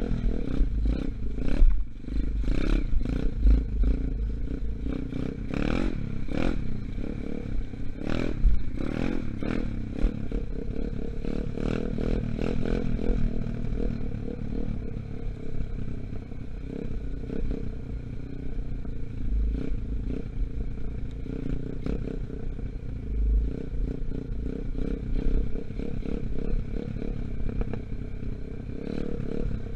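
A 125cc Gunshot dirt bike engine, still being run in, running and revving up and down as it is ridden, with frequent clattering knocks and rattles over it.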